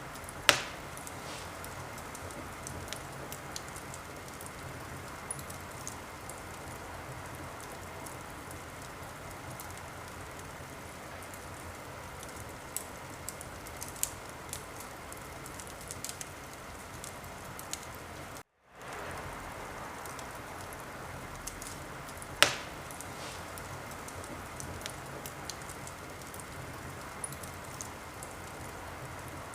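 Wood fire crackling in a fireplace: a steady soft hiss with scattered small pops, and two loud sharp pops, one just after the start and one about three-quarters of the way through. The sound cuts out for a split second a little past the middle.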